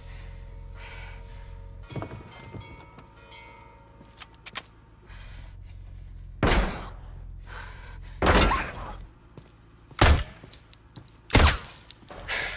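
Gunfire striking a car's bulletproof glass and bodywork, heard from inside the cabin: a few light knocks, then four heavy, cracking impacts in the second half as the glass takes the hits.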